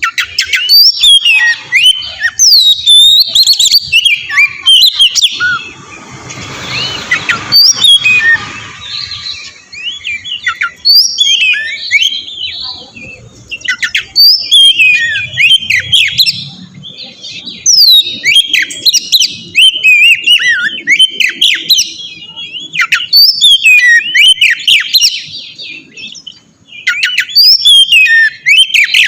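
Oriental magpie-robin (kacer) singing in repeated bursts of rapid, sweeping whistled notes with short pauses between phrases. A brief rush of noise cuts across the song about a quarter of the way in.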